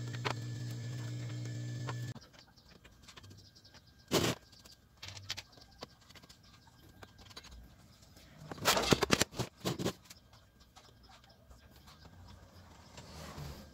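A steady pitched buzz for about two seconds, then a single knock, and about halfway through a burst of clattering knocks, the loudest part.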